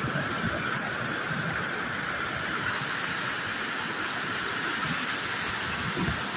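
Swollen flood torrent rushing steadily: an even roar of water with low, irregular knocking beneath it.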